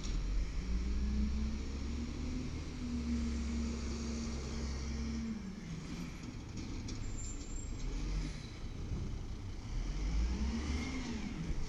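Diesel engine of a WhiteGMC garbage truck revving up and holding high for a few seconds, dropping back, then revving up again and falling off near the end.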